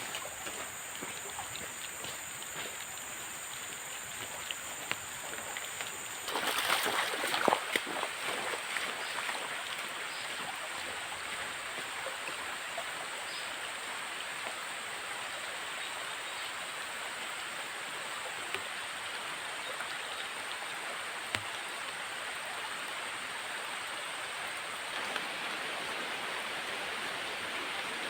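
Steady rushing water noise from heavy rain and a river. About six seconds in, a faint high steady whine stops, and a louder noisy burst follows for about two seconds.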